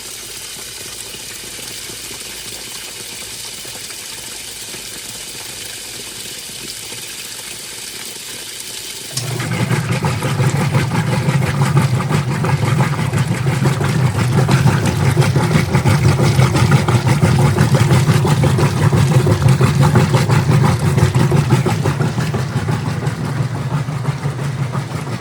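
Admiral top-load washing machine with a newly fitted direct-drive transmission: a steady hiss of water filling, then about nine seconds in the motor starts and the machine runs with a loud low hum and a fast churning.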